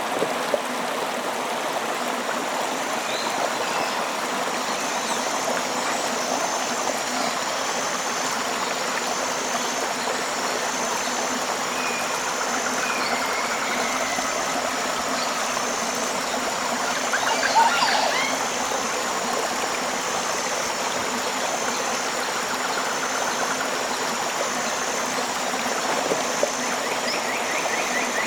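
Tropical river flowing with a steady rush of water. Birds call now and then over it, and a high note pulses about once a second.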